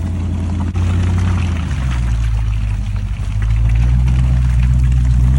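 Range Rover engine running under load while driving off-road. The engine note steps up about two seconds in and grows louder in the second half, over a steady rushing noise.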